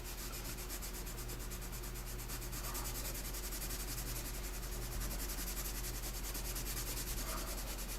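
Graphite pencil shading on paper: a steady, rapid back-and-forth scratching of the lead as tone is laid into the shadows.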